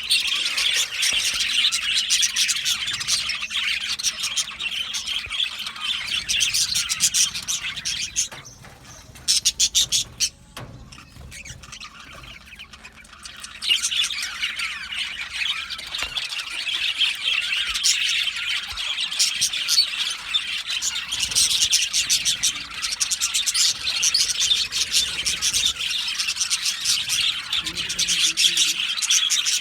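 A colony of budgerigars chirping together in a dense, continuous chatter. About eight seconds in it thins out for several seconds, with a few short loud sounds, then the full chatter comes back at around fourteen seconds.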